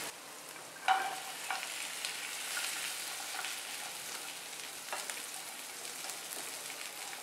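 Drumstick pods sizzling in hot mustard oil and spice paste in a frying pan as a wooden spatula stirs them through. A steady hiss, with a sharp clack about a second in and a few lighter knocks later.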